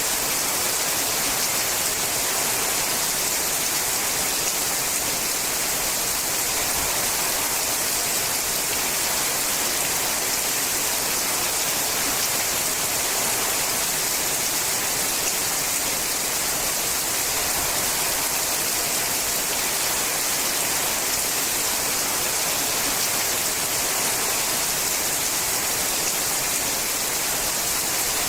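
Steady rain drumming on a sheet-metal roof: a dense, even patter of drops with a bright hiss and no pauses.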